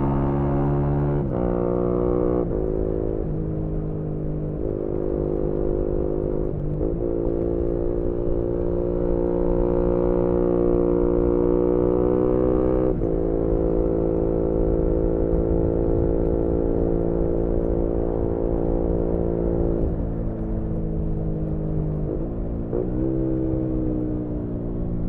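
2018 Yamaha MT-125's single-cylinder four-stroke engine breathing through a GPR aftermarket exhaust, heard onboard while riding. It runs at steady revs between gear changes, its pitch dropping sharply about a second in, again a second later and about halfway through, with low wind rumble on the microphone.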